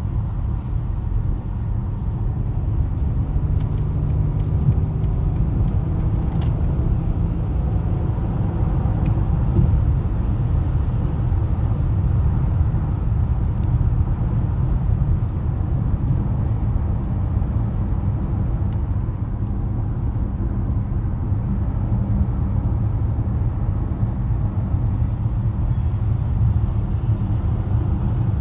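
2020 BMW X5 (G05) cruising, a steady low rumble of engine and road noise with no sudden changes.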